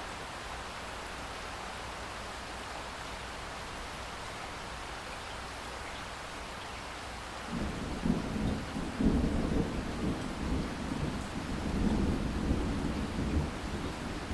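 Steady rain falling, with a long, low rumble of thunder starting about halfway through and rolling on in waves to the end.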